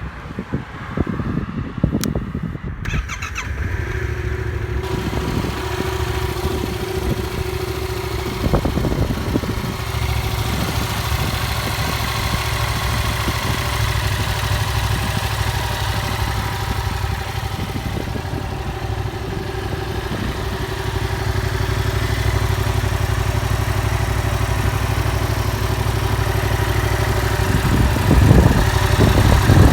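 Yamaha MT-07's 689cc parallel-twin engine through its stock exhaust, started about three seconds in and then idling steadily, getting a little louder later on with a short blip of revs near the end.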